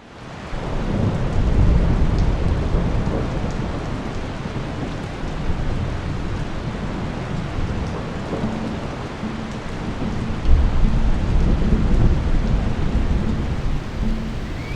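Steady rain falling, with low rumbles of thunder that swell about a second in and again around ten seconds in. The sound fades in at the start.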